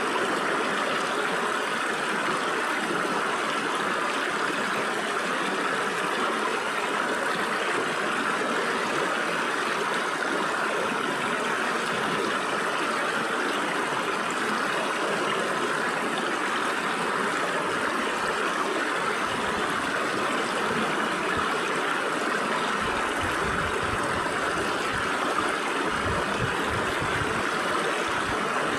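Stream water flowing steadily through the gaps between rocks, an even rushing and babbling. A low, uneven rumble joins in during the second half.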